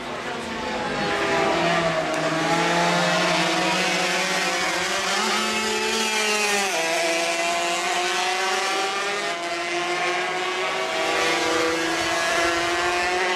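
Several 125 cc racing motorcycles running hard on the circuit, their engine notes overlapping and rising and falling in pitch, with a sudden drop in pitch about six and a half seconds in as a bike goes by.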